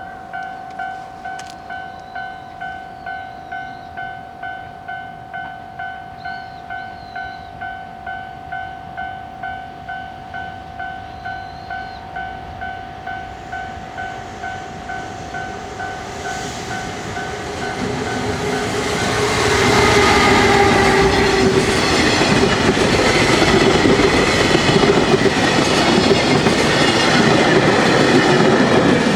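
A level-crossing warning bell rings in steady, even pulses while a freight train approaches; a little over halfway through, the EF210 electric locomotive and its wagons pass close by, loud, with wheels clattering over the rail joints and drowning out the bell.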